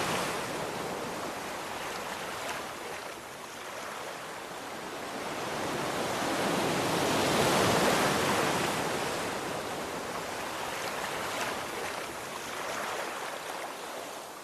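Sea waves breaking on a shore: a steady rush of surf that eases at first, swells to a crest about halfway through, then slowly washes back.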